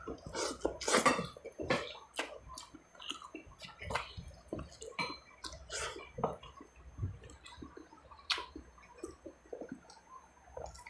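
Close wet chewing and lip-smacking of a man eating a handful of rice and beef: a run of irregular short smacks, the loudest about a second in.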